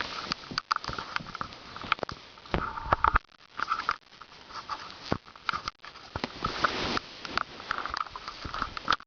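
A dog sniffing in quick, repeated bursts, with scattered clicks and taps.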